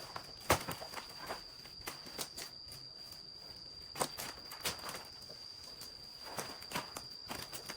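Irregular sharp knocks and snaps, a few to each couple of seconds, over a steady high-pitched insect drone.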